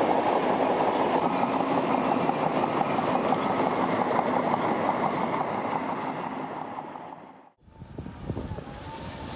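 Heavy tracked machinery running with a dense, steady clatter, fading out about seven and a half seconds in. A quieter sound with a few scattered knocks follows near the end.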